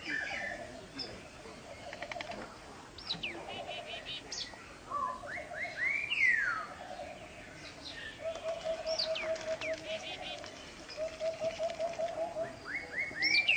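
Birds calling: a low, rapid pulsed trill that comes again every couple of seconds, with high whistled notes sweeping up and down between the trills.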